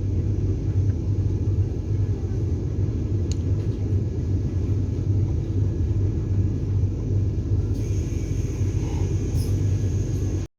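Steady low rumble inside a Vande Bharat Express coach, strongest as a deep hum, with a faint hiss joining in near the end before the sound cuts out abruptly.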